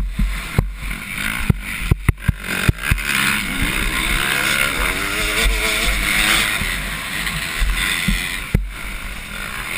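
Two-stroke motocross bike engines revving and running on the track, their pitch rising and falling as riders work the throttle. Several sharp knocks come in the first three seconds, and another near the end.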